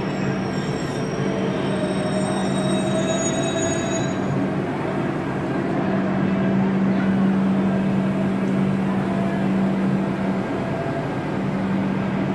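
A train at a railway station: a steady low hum over a rumbling haze, with faint thin high tones over the first four seconds that then fade out.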